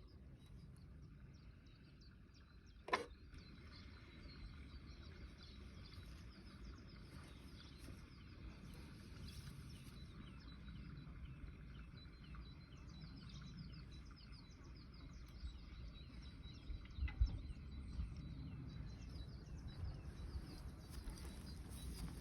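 Faint birds chirping over a low rumble, with one sharp knock about three seconds in.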